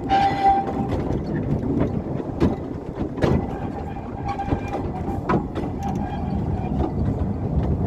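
Narrow-gauge quarry railway train running, its wagons rumbling steadily with sharp knocks from the wheels and couplings, and a thin squeal coming and going.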